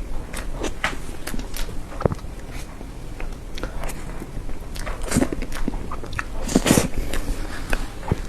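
Close-miked eating sounds of soft cream cake: wet chewing and sticky mouth clicks and smacks, with louder clusters of smacks about five seconds in and again near seven seconds.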